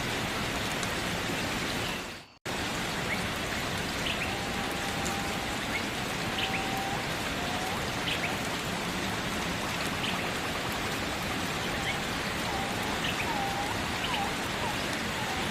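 Steady rain falling, with faint short chirping calls scattered through it. About two seconds in the rain fades out to silence for a moment, then starts again abruptly.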